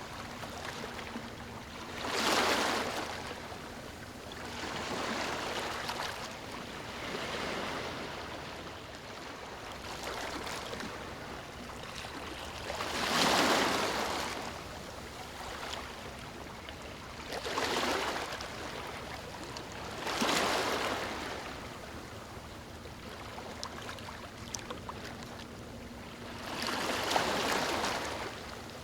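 Small waves lapping on a beach, each swelling up and washing out every few seconds, with the biggest about halfway through and near the end.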